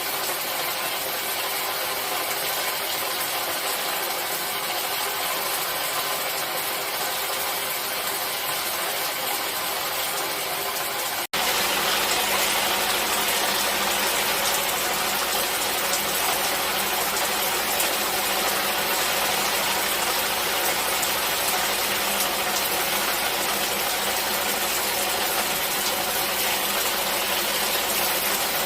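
Steady rain noise, an even hiss. About eleven seconds in it cuts out for an instant and switches to a slightly louder stretch with more low rumble, a splice between two recordings.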